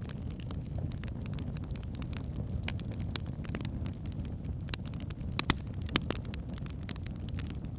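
Wood fire burning in a fireplace: a steady low rumble of flames with irregular sharp crackles and pops from the logs, two louder pops about five and a half and six seconds in.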